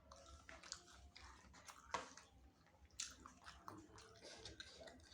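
Chewing and biting of spicy chicken wings, faint wet mouth sounds with scattered clicks and smacks, two of them sharper about two and three seconds in.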